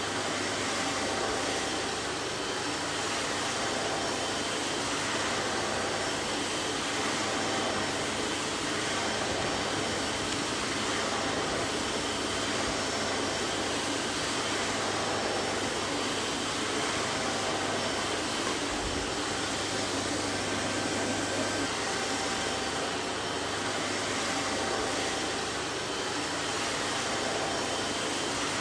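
Vacuum cleaner running steadily: an even whooshing motor and airflow noise with a faint low hum, unchanging throughout.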